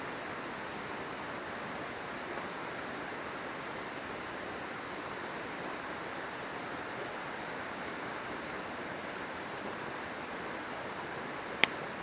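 River water flowing with a steady rush, with a single sharp pop from the burning campfire wood near the end.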